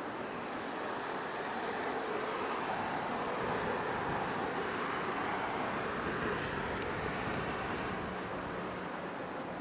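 Road traffic noise: a passing vehicle, its sound swelling over several seconds and then easing off.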